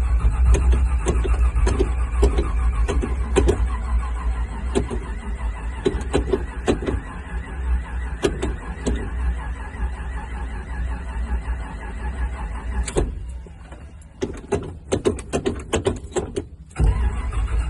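1969 Chevrolet Camaro SS V8 being cranked over by its starter in a hard cold start, a rhythmic low churning of compression pulses. The owner puts the hard starting down to flooding. Cranking stops about thirteen seconds in, a run of sharp clicks follows, and cranking resumes near the end.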